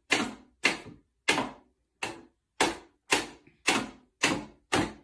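A regular series of sharp knocks or taps, about two a second, each ringing briefly before the next.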